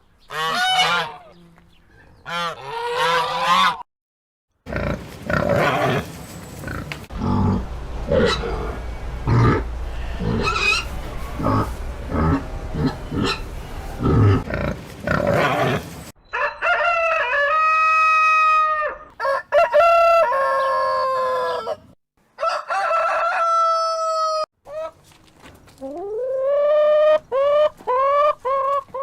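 Chickens clucking in a flock, then a rooster crowing several times in long held calls, followed by quick rising calls.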